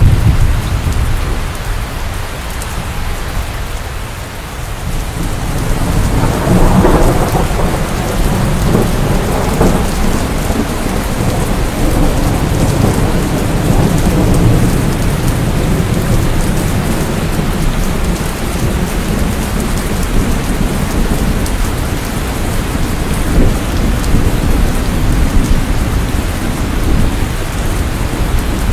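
Steady heavy rain falling, with a deep rumble that swells about six seconds in and rolls on for several seconds.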